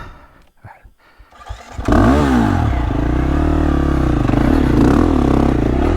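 Dirt bike engine revving up and down hard, coming in loudly about two seconds in after a few light knocks and scrapes.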